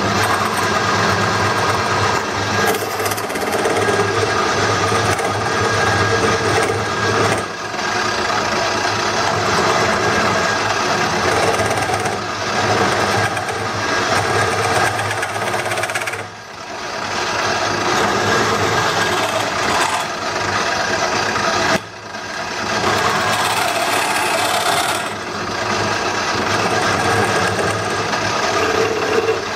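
Wood lathe running with a hand turning tool cutting into a spinning wooden bowl blank: a steady motor hum under a rough, continuous scraping of tool on wood. The cutting noise drops away briefly about 16 and 22 seconds in, as the tool comes off the wood.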